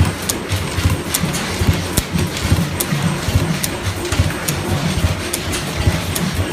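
Large antique stationary engine running steadily: a rhythmic low pulsing beat with a sharp metallic click repeating a little more than once a second.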